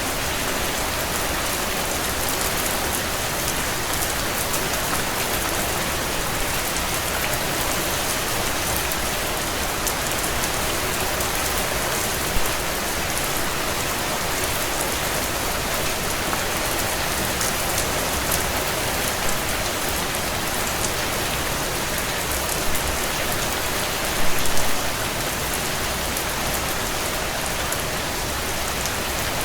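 Heavy rain drumming steadily on a tin roof, with a few brief louder hits, the biggest cluster about two thirds of the way through.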